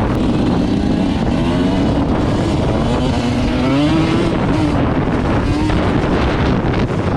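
An off-road vehicle's engine revving up and down as it is ridden, buried in heavy wind noise on the microphone.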